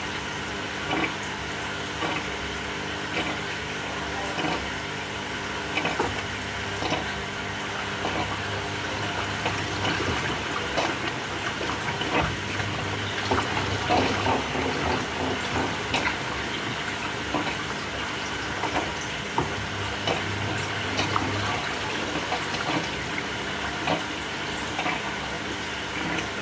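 Samsung top-loading washing machine mid-cycle: water sloshing and splashing in the tub with irregular knocks, and a low motor hum that comes on for a few seconds about a third of the way through and again about three-quarters through.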